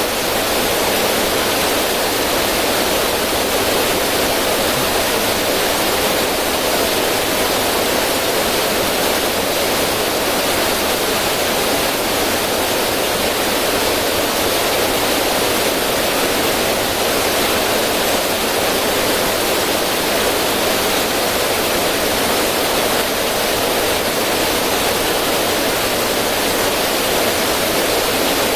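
River water running over rocks into a small cascade: a steady, unbroken rush of splashing water.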